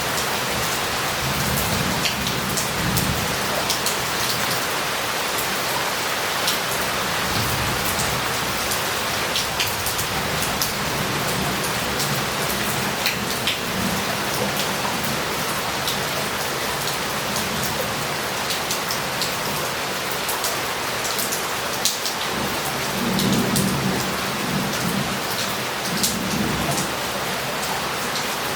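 Heavy rain pouring steadily onto roof tiles and pavement, with water running off and individual drops ticking. Low thunder rumbles swell briefly near the start and again late on.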